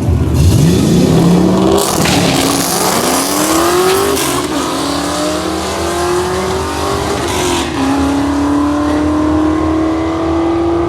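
Drag car launching down the strip at full throttle, its engine note climbing steeply through the gears, with three upshifts about 2, 4 and 7.5 seconds in, each a brief drop in pitch before it climbs again.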